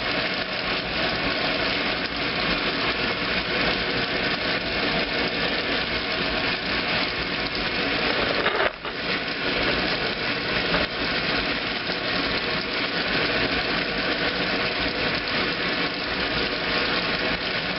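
2008 Kenmore washing machine running through its heavy duty cycle, a steady mechanical motor-and-drive noise that briefly dips about halfway through.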